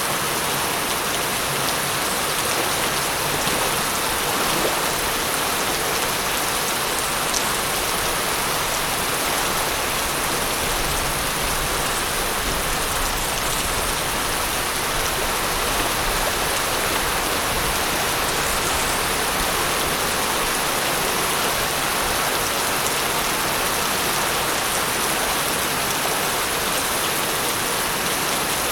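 Steady rain falling: an even, unbroken hiss of many drops, with the odd single drop tap standing out.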